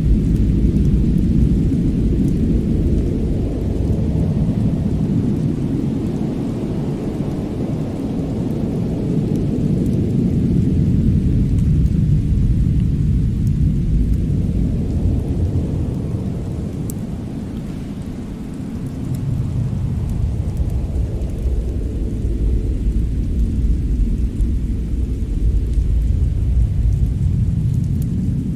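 Winter-storm ambience: a deep, steady rumble of wind swelling and easing in slow waves about every ten to fifteen seconds, with a few faint fireplace crackles.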